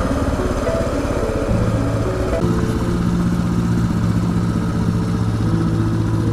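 Kawasaki KLR 650's single-cylinder four-stroke engine running under way on the trail, with its note changing in steps about one and a half and two and a half seconds in.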